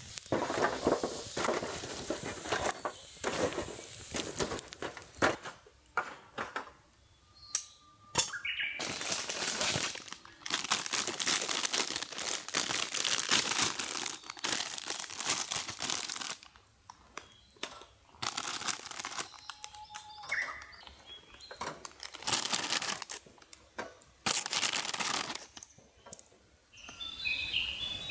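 Rustling and crinkling of crinkly material being handled, in long irregular bursts with short pauses between them. A bird chirps near the end.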